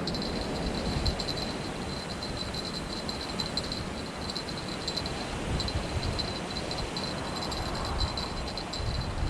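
Wind buffeting the microphone, a gusty low rumble over a steady rushing noise. A high-pitched chirping trill pulses quickly throughout.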